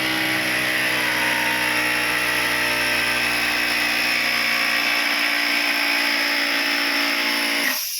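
Small built-in air compressor of a Nasan NA B2+ bubble remover running with a steady loud hum and hiss. It cuts out near the end, its hiss dying away, which the owner puts down to the power plug working loose.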